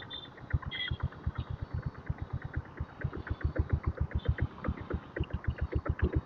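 Diesel Bullet's single-cylinder diesel engine running in slow, even exhaust beats, about seven a second, picking up a little in pace and loudness over the last couple of seconds. It is fitted with a replacement silencer and sounds quiet, like a normal bike.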